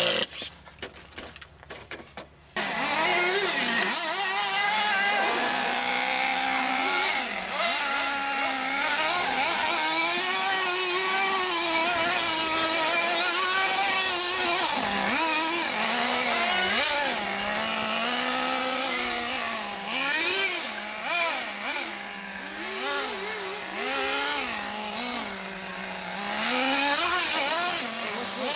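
Small nitro (glow-fuel two-stroke) engine of a radio-controlled monster truck, revving up and down as it is driven, its pitch rising and falling constantly. It starts abruptly about two and a half seconds in, after a quieter stretch with a few clicks.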